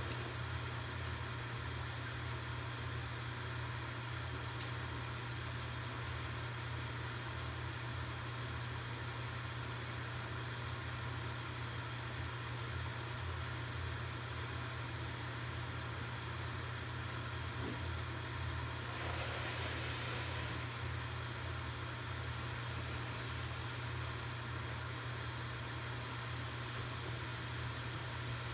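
Campfire burning with a steady low rumble and hiss, and only a couple of faint pops. About two-thirds of the way in there is a brief louder hiss lasting a second or two.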